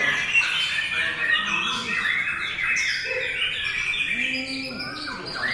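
Several white-rumped shamas (murai batu) singing over one another, a dense run of overlapping whistles and chattering phrases.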